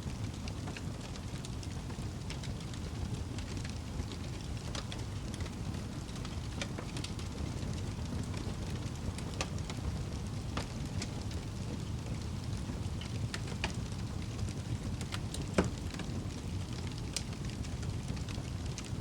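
Wood fire burning in a fireplace: a steady low rumble of flames with irregular crackles and pops, the loudest pop about three-quarters of the way through.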